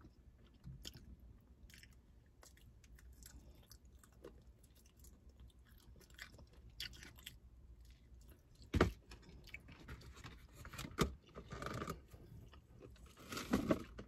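Close-up chewing of a crispy KFC fried chicken wing: soft mouth sounds at first, then sharp crunches of the breading, the loudest about nine seconds in.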